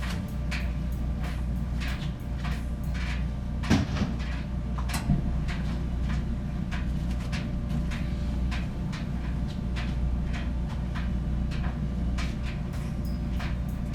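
GE gas dryer running: a steady low hum from the motor and drum, with light regular ticking about twice a second and two louder knocks about four and five seconds in. No loud fault noise yet: it is running quietly.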